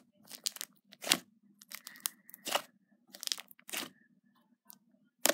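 Slime being squished and pulled in the hands, giving irregular sticky crackles and pops, about a dozen in a few seconds.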